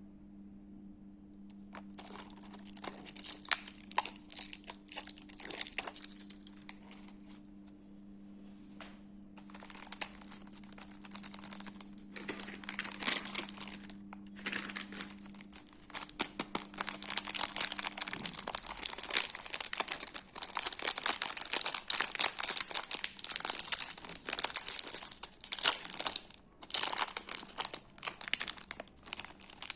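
Chocolate and biscuit wrappers being crinkled and unwrapped: a dense crackle of wrapper packaging that starts about two seconds in and goes on with brief pauses. A faint low hum runs underneath until about eighteen seconds in.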